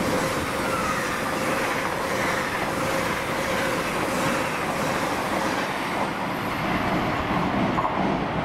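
A train running through the station, a steady continuous noise with a faint held tone under it.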